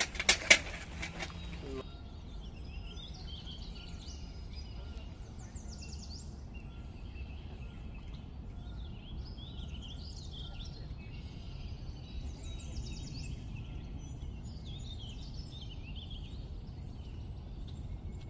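A spoon scraping and knocking in a clay pot for about two seconds, then birds chirping and trilling over a low steady background hum.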